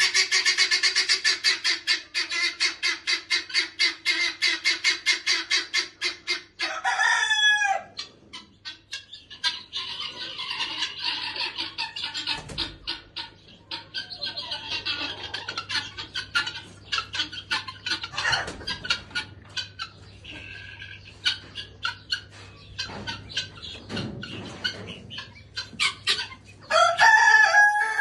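Chickens clucking, with a fast, even run of clucks at first and scattered short clucks after. A rooster crows about seven seconds in and again near the end.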